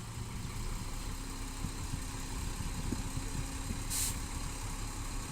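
Heavy diesel engine of earthmoving machinery running steadily at low revs, with a short sharp hiss about four seconds in.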